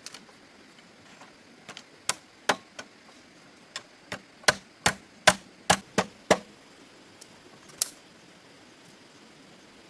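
A series of sharp knocks: about a dozen separate strikes at an uneven pace, bunched in the middle, with one last strike near the end.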